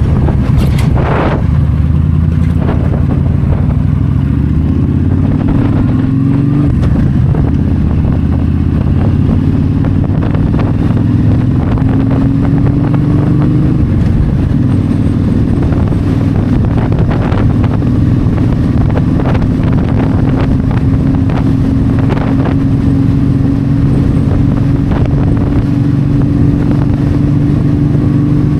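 Yamaha V-Star 1300's V-twin engine running at highway speed, with wind noise on the microphone. The engine note rises in pitch twice, about five seconds in and again about twelve seconds in, as the bike accelerates.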